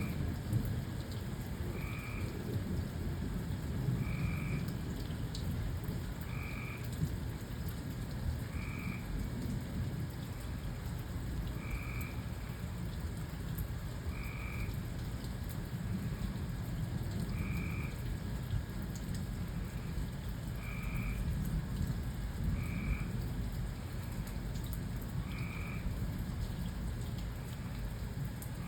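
Steady rain with low rolls of thunder, and a frog giving a short call about every two to three seconds.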